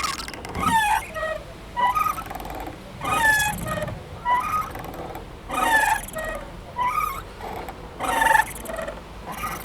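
Playground swing squeaking rhythmically as it swings back and forth: a louder pitched squeal about every two and a half seconds, with a softer squeak halfway between.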